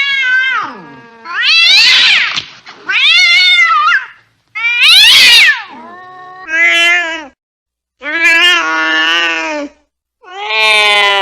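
Domestic cat yowling angrily: a string of drawn-out calls about a second each, with short pauses. The early calls rise and fall in pitch, and the later ones are lower and held longer and steadier.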